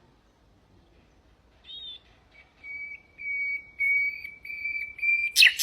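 Common nightingale singing. A short rising note is followed by a series of about five long, pure whistles on one pitch that grow louder, then a loud, rapid rattling trill near the end.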